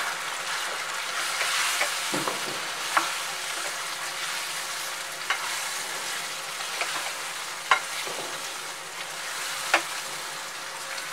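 Chicken masala with tomatoes and yogurt sizzling in oil in a nonstick frying pan while a spatula stirs it, a steady frying hiss. A few sharp knocks of the spatula against the pan break through it.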